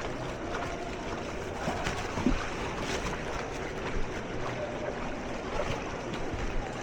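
Floodwater sloshing and splashing as something moves through it, a steady wash with a few small knocks, and some wind on the microphone.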